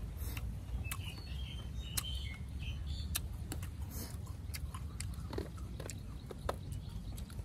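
Crisp raw fruit being chewed: irregular crunching clicks over a steady low background rumble.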